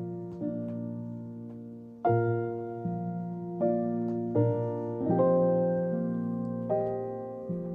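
Gentle solo piano background music: slow chords struck every second or so, each ringing and fading before the next.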